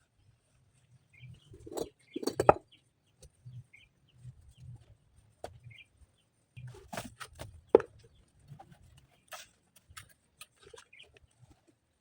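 Chickens clucking now and then, with a louder squawk-like burst about two seconds in and another past the middle, among scattered sharp knocks and faint chirps.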